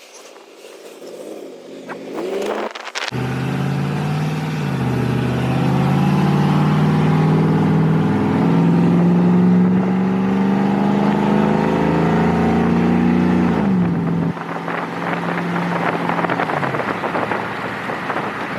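Cammed LS V8 truck engine with long-tube headers and a Flowmaster exhaust accelerating hard. It comes in abruptly about three seconds in and climbs steadily in pitch, then falls off and quiets about fourteen seconds in as the throttle is lifted.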